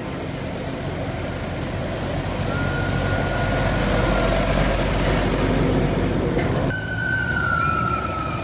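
Heavy truck engine running, its rumble growing louder in the middle with a hiss, and a thin high whine over it; after a cut near the end, a high tone slides slowly down.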